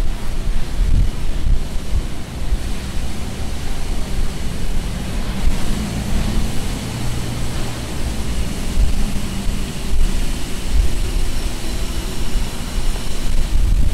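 Outdoor street ambience: a steady low rumble with gusts of wind buffeting the microphone, and faint steady high tones joining about five seconds in.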